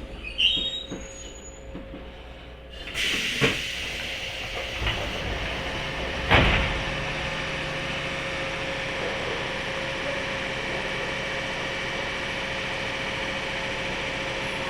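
Inside a 103-series electric train's motor car: a few knocks, then a sudden hiss about three seconds in. A loud thump comes around six seconds, then a steady hiss with a low hum.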